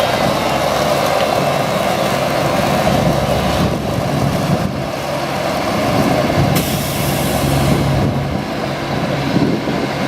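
2003 Mack DM690S truck's AMI-300 diesel engine running steadily. About two-thirds of the way through there is a short high hiss of air, typical of the truck's air brakes.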